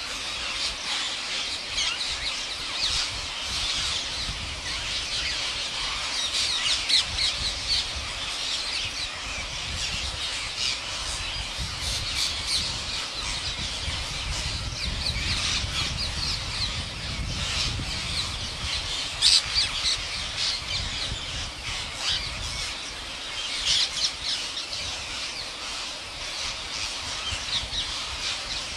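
Parrot squawking and chattering: a continuous stream of short, shrill calls, with a few sharper, louder squawks now and then.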